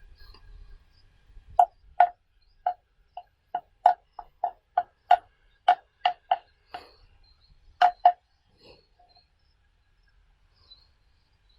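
A run of about sixteen sharp, hollow knocks, all at the same pitch, struck at an uneven pace for about six and a half seconds.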